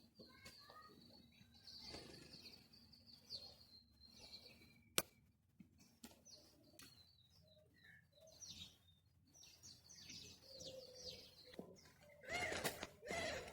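Faint birds chirping on and off, with one sharp click about five seconds in and louder calls near the end.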